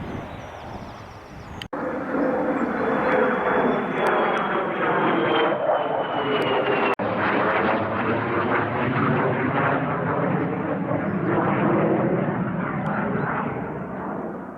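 Military fighter jet passing close by with a loud jet roar and a high whine that slowly falls in pitch, starting abruptly about two seconds in with a brief break midway.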